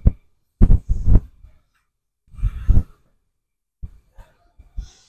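A man breathing hard from exertion after a set of squats: three heavy exhales in the first three seconds, then a few faint clicks.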